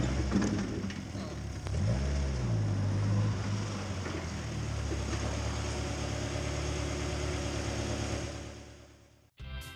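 Turbocharged Mazda Miata 1.8 BP four-cylinder engine in an Exocet kit car running, its revs rising and falling once and then holding steady before fading out.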